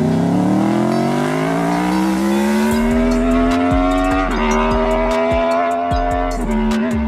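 Liter-class sport motorcycle engine accelerating hard, its pitch climbing steadily, then dropping sharply on an upshift about four seconds in and again near the end. Background music with a deep bass and beat comes in partway through.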